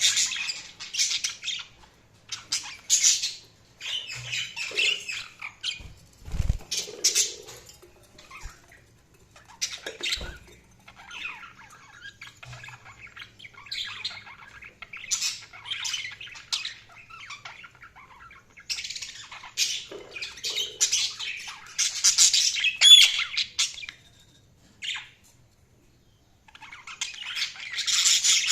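Budgerigars chattering and warbling in short irregular bursts of chirps and squawks, busiest in the second half with a brief pause near the end. A couple of low thumps are heard about six and ten seconds in.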